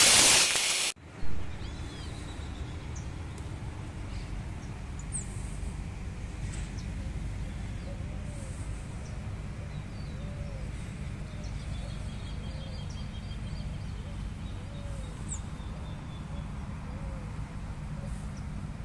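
A loud mechanical intro sound cuts off about a second in, giving way to open-air ambience: a steady low rumble of outdoor noise with scattered bird chirps and calls, including a short call repeated about once a second through the middle.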